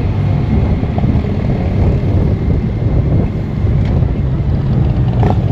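Motorcycle engine running steadily on the road, with wind on the microphone.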